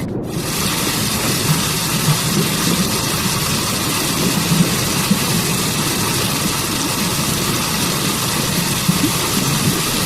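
Waterfall's steady rush of falling water: a continuous noise with a deep rumble beneath an even hiss, the hiss dropping out for a split second just after the start.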